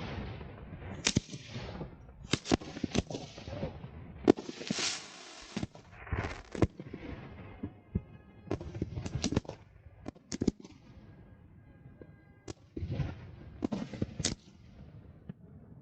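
Fireworks display: an irregular series of sharp bangs from launching and bursting shells, some with crackling or hissing tails, with a longer hissing burst about five seconds in.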